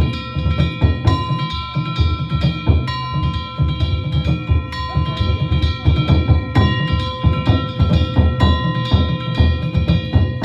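Danjiri ohayashi festival music: drums struck in a fast, continuous rhythm over ringing hand gongs (kane).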